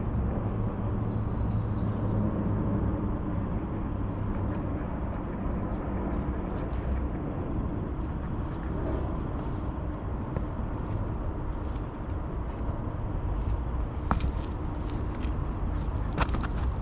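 Steady low rumble of distant road traffic under the outdoor ambience, with a few sharp clicks near the end.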